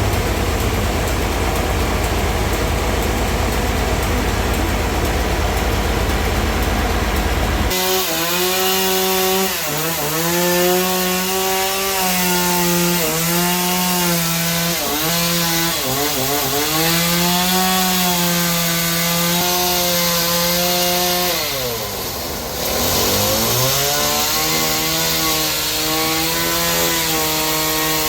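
Portable sawmill sawing suar wood. After an abrupt change about a quarter of the way in, the saw's engine note drops in pitch again and again and recovers as the blade bogs in the cut, with one deep sag near the end.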